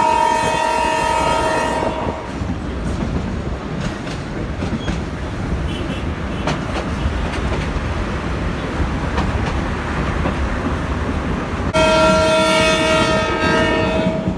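Train horn sounding a long, steady chord that stops about two seconds in. The train's running noise on the rails follows, and the horn sounds again for the last couple of seconds.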